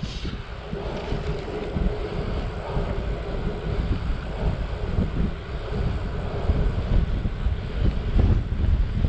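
Wind buffeting the microphone of a camera riding on a moving bicycle: a steady low rumble that swells and eases in gusts. A faint steady hum sits under it for the first few seconds.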